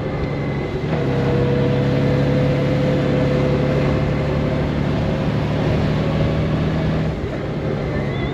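Honda GoldWing motorcycle's flat-six engine running steadily on the move, over wind and road noise. The engine note steps in pitch about a second in and again near the end.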